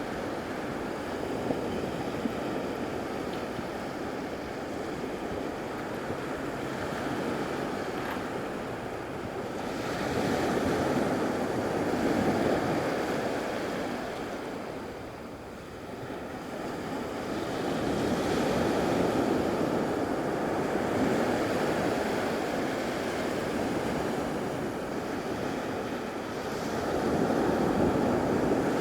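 Surf breaking and washing up a beach. The noise swells and eases in slow surges several seconds apart.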